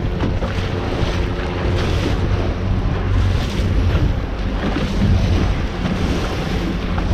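Boat motor running with a steady low hum, under wind buffeting the microphone and the rush of water around the hull.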